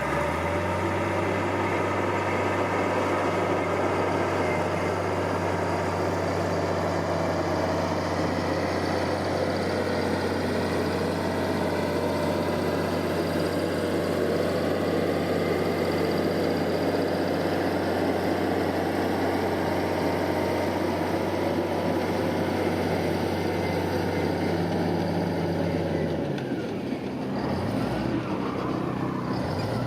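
Diesel engine of heavy earth-moving equipment running at a steady speed with a low, even hum. Near the end the steady note drops away and the engine sound becomes uneven.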